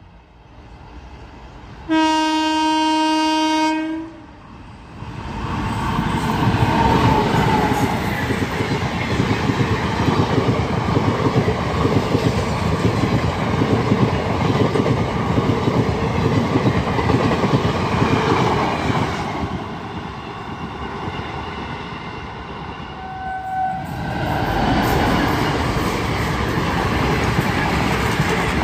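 A train horn sounds one steady blast of about two seconds, then Indian Railways passenger coaches rush past close by with a continuous clickety-clack of wheels over rail joints. Near the end the noise dips and a second passenger train starts passing.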